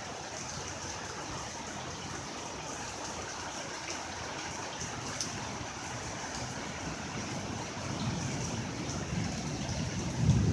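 Steady heavy rain falling, with water trickling and dripping. A low rumble builds near the end.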